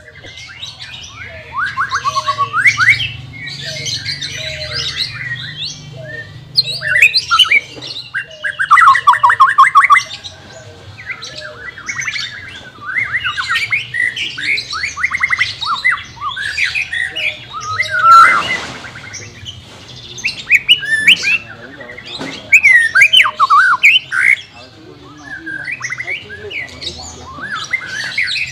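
White-rumped shama singing: loud, varied phrases of rapid trills, whistles and chirps in bursts, with a brief harsh rasp about two-thirds of the way through.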